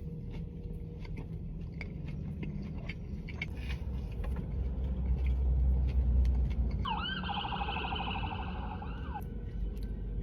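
A siren sounds for about two seconds near the end, a fast warbling tone that starts with a rising sweep, over a low rumble that swells in the middle. Small clicks of eating run throughout.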